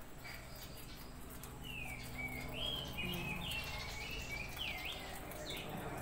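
Birds chirping: a quick string of short calls that rise and fall, starting about two seconds in and running to about five seconds in, over a steady low background hum.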